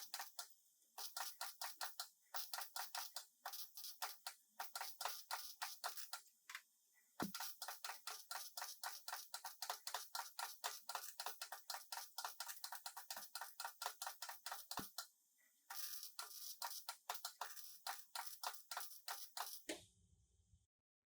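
Rapid, regular clicking, about six clicks a second, in runs broken by short pauses, with a couple of dull knocks among them; it stops shortly before the end.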